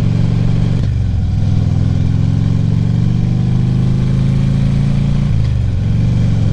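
Harley-Davidson V-twin touring motorcycle engine accelerating through the gears. The engine note rises steadily, then drops with a shift about a second in and again near the end, heard over steady wind noise.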